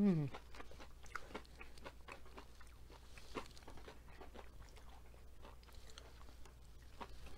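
Close-up crunching and chewing of breaded, fried asparagus: many small, irregular crisp crunches as it is bitten and chewed. A short hummed "mm" at the very start.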